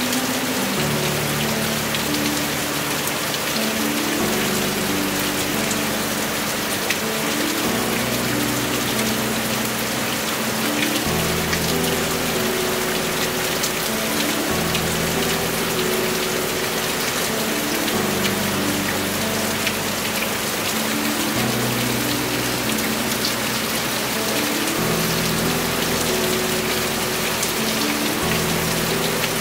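Heavy rain falling steadily, a dense even patter. Soft background music with low sustained notes that change every few seconds plays under it.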